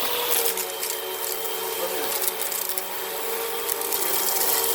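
Vacuum cleaner running over carpet, a steady motor whine with brushroll, with a few short crackles of sand being picked up.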